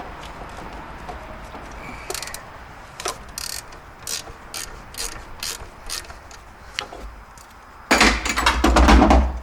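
Hand ratchet wrench clicking as a bolt is worked loose, with separate clicks about two a second, then a louder, rapid run of ratcheting near the end.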